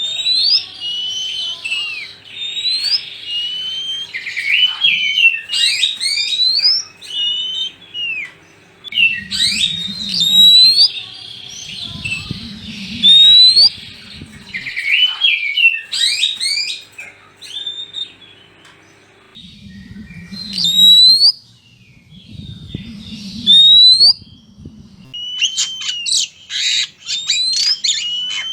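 Oriental magpie-robins (kacer) singing loudly in rapid whistled phrases full of rising sweeps and chattering notes, with a quick run of repeated notes near the end. Low rumbling noise comes and goes in two stretches underneath.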